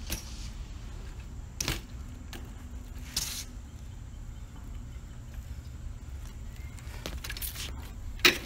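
BMX bike riding on concrete: a steady low rumble of rolling, a few knocks and a brief scrape, and a sharp loud clack near the end.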